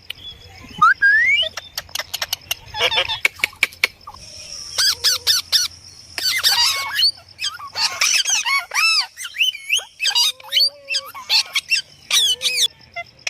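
Indian ringneck parakeet squawking and chattering: a busy run of sharp clicks mixed with short calls that rise and fall in pitch.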